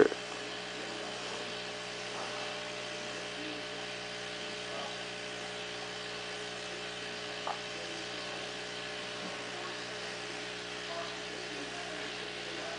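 Steady electrical hum made of several fixed tones, with one faint short blip about seven and a half seconds in.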